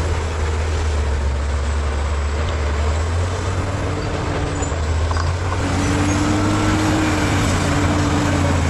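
Bulldozer's diesel engine running with a steady low drone over a broad mechanical noise; a higher steady tone joins a little past halfway and the sound grows slightly louder.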